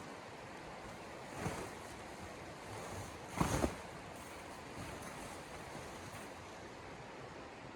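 Steady rushing noise of blizzard wind, with two brief louder bursts, about one and a half and three and a half seconds in.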